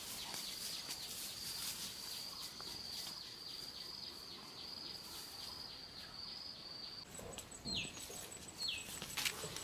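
Insects trilling steadily in a fast high pulse, replaced about seven seconds in by a higher, thinner pulsing trill. A bird gives two short falling whistles near the end.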